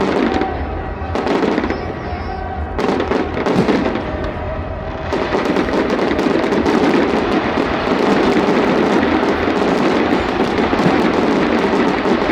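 Fireworks going off: separate bursts for the first five seconds or so, then a dense, continuous barrage of rapid crackling bursts.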